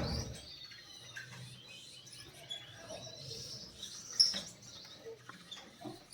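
Lovebirds chirping, with short high calls scattered through and one sharper, louder chirp about four seconds in.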